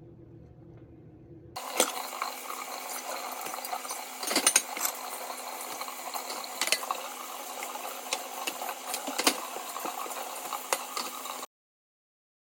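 Glass clinking, as of ice and a glass straw in a drinking glass: a run of sharp clinks over a steady rattle that starts suddenly and cuts off suddenly near the end.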